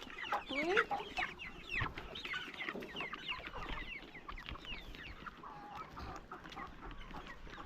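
A flock of chickens clucking and peeping, many short calls overlapping, busiest in the first couple of seconds and thinning out after.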